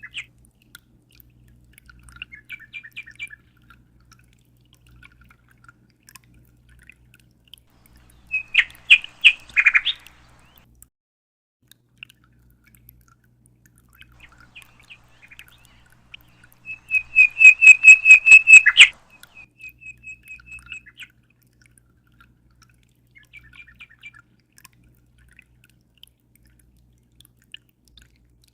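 A small songbird singing: bouts of rapid, high repeated notes in trills, with two louder, fuller bursts of song, one about a third of the way in and one past halfway.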